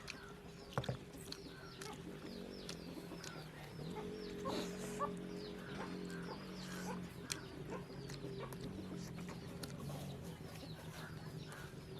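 Chickens clucking and chicks peeping in many short, falling chirps, over a steady low hum that comes in about four seconds in.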